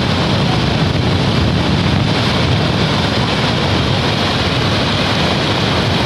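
Heavy rain falling, a steady, loud, even rush.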